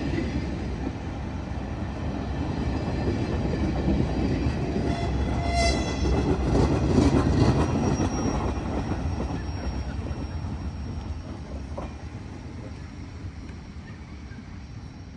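A long train's cars rolling past on the rails, with wheel-on-rail rumble and a faint steady squeal. It grows loudest about seven seconds in, then fades as the train moves away.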